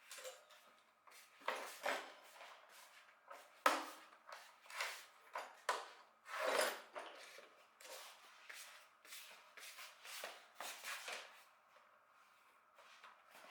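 Irregular clacks, scrapes and knocks of hard objects being handled and set down, loudest about four and six and a half seconds in, with no steady motor sound.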